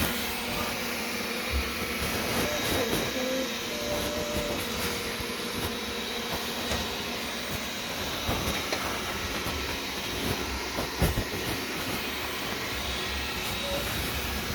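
Wyze robot vacuum running: a steady whirring hiss with a faint high whine, and a few light clicks here and there.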